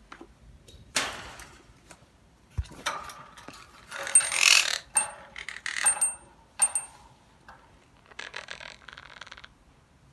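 A bird cage being handled: a string of short clattering and rattling noises with a few ringing metallic clinks.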